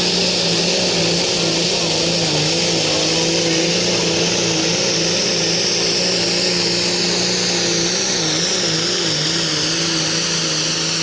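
Competition pulling vehicle's engine running hard at high, steady revs during a pull run. Its pitch wavers briefly about eight seconds in, and a high whine slides slowly down in pitch over the second half.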